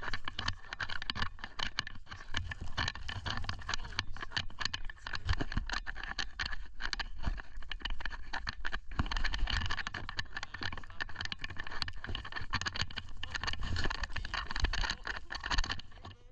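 Blizzard wind buffeting the microphone: a steady low rumble with a dense, irregular crackle on top.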